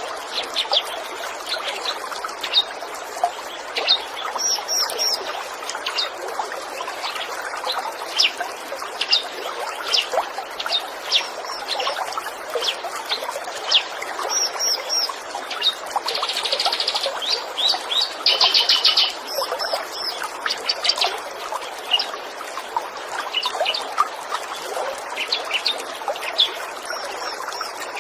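Birdsong: many short chirps and a couple of fast buzzy trills about two-thirds of the way through, over a steady trickle of running water.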